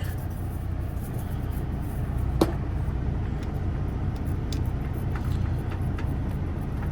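Steady low rumble of an idling engine, with a few light clicks on top and one sharper click about two and a half seconds in.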